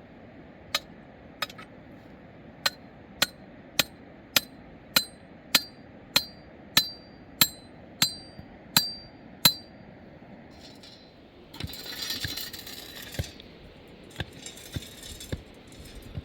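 Repeated sharp metallic strikes, about one every 0.6 s and each with a short ringing, getting louder over about nine seconds. Then a rough scraping noise and a few fainter knocks near the end.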